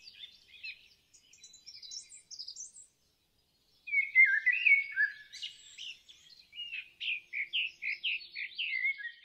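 Birdsong: scattered high chirps, then a louder whistled phrase about four seconds in, ending in a run of quick repeated notes, about four a second.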